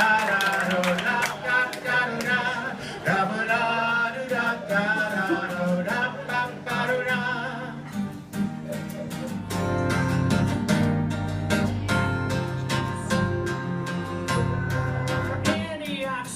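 A voice singing over strummed acoustic guitar; about halfway through, the guitar chords fill out lower and denser while the singing fades back.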